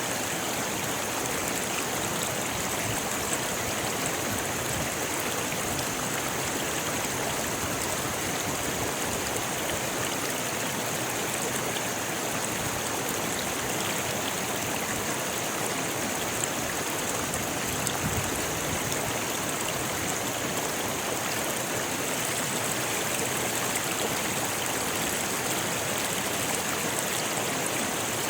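Rocky river flowing over stones: a steady, even rush of water with no breaks or changes.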